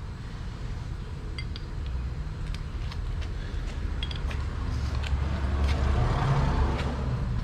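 A low, steady rumble with scattered light clinks of metal on metal, the rumble growing louder over the last couple of seconds.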